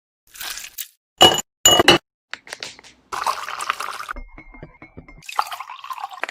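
Glassware clinking sharply twice, about half a second apart, then liquid being poured in two stretches, with a thin steady tone between them.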